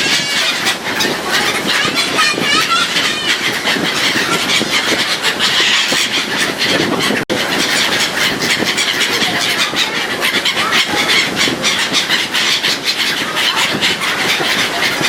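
Black-headed gulls calling around a moving ferry, over a steady rush of wind and ship noise full of quick clicks.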